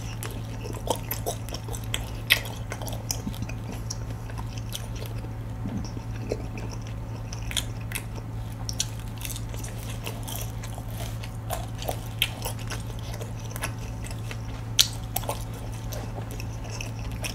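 A person chewing crispy fried dumplings close to the microphone, with scattered short crunches and wet mouth clicks, over a steady low hum.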